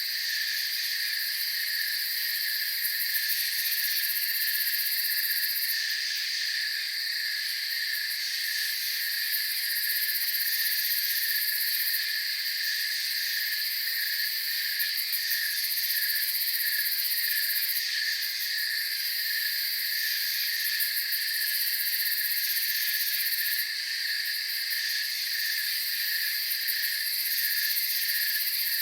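Night insect chorus of crickets chirping: a steady high trill over a lower chirp that pulses in an even rhythm, without a break.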